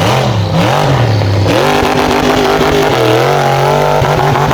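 Monster truck engine revving hard, its pitch swinging up and down through the first second and a half, then held high with a brief dip about three seconds in.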